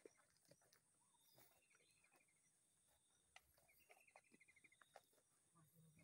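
Faint bird calls: a short, quick run of notes falling in pitch, repeated about every two seconds, over a steady high hiss with a few scattered faint clicks.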